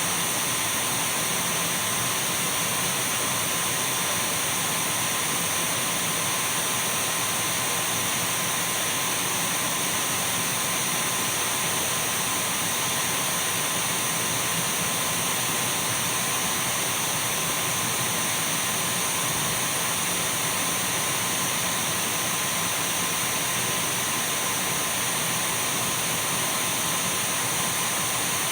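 Dyson V12 cordless stick vacuum cleaner running steadily: a constant rush of air with a thin high whine and a fainter steady mid-pitched tone, unchanging throughout.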